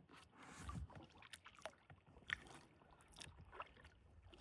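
Faint kayak paddling: a paddle dipping into still swamp water, with a short swish and scattered small drips and knocks.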